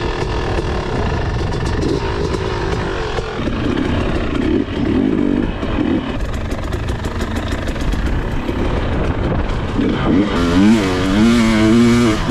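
Dirt bike engine running under throttle, its pitch rising and falling as the rider works the throttle, with fast up-and-down revving near the end.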